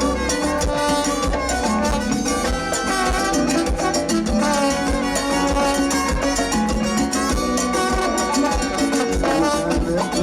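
Live Latin tropical band playing an instrumental passage between sung verses, with brass, percussion and a steady dance beat.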